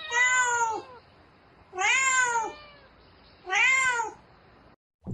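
Domestic cat meowing three times, each meow under a second long, rising then falling in pitch, close to two seconds apart.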